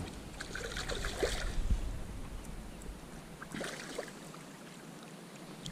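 Irregular light water splashes and soft knocking and rustling on a fishing kayak while a freshly landed snapper is handled, coming in clusters about a second in and again near the end.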